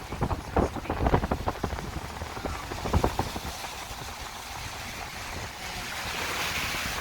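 Car driving through standing floodwater with a window open: wind and road noise, then a hiss of water spray from the tyres that swells from about five seconds in.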